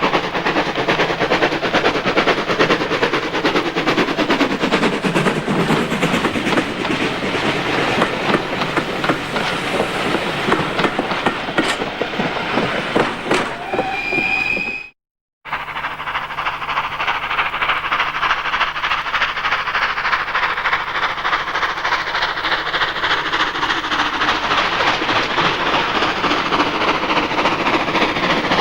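Steam locomotive hauling a train past, with rapid chuffing exhaust beats and the clatter of wheels on rail joints. A short whistle sounds about halfway through, just before the sound cuts off abruptly, and then another passing steam train follows.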